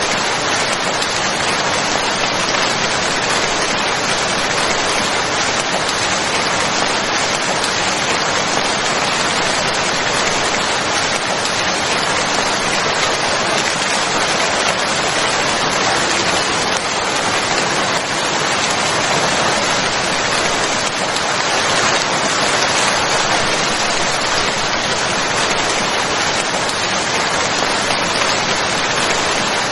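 Steady rain falling and pattering on a surface, an even, unbroken hiss of drops.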